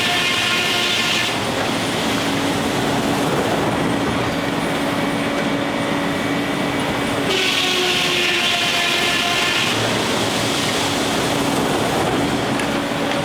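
Steam-powered sawmill running: steady machinery noise with the high ringing whine of the circular saw blade, which fades about a second in and returns around seven seconds in.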